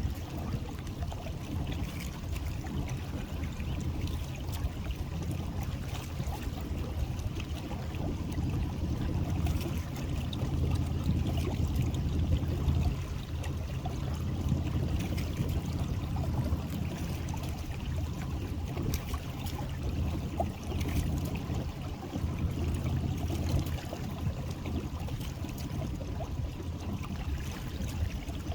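Water trickling and splashing on a small boat over a steady low rumble, with scattered small ticks throughout.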